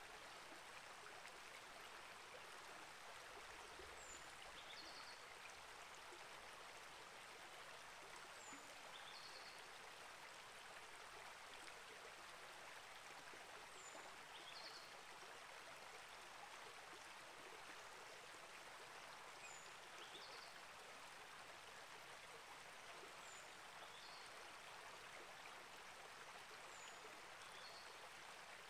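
Small rainforest creek flowing steadily and faintly, with a bird repeating a short, high call every four to six seconds.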